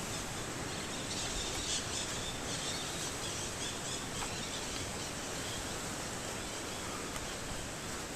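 Steady rushing noise of the distant Tamul waterfall, with a few faint bird chirps in the first half.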